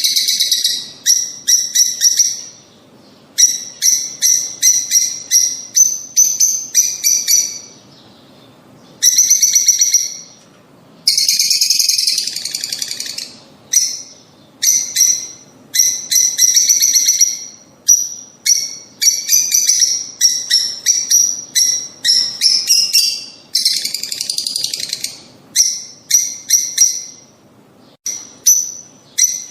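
Lovebirds chirping: rapid, sharp, high-pitched chirps in bouts of a few seconds with short pauses between them, a call recording used to encourage lovebirds to breed.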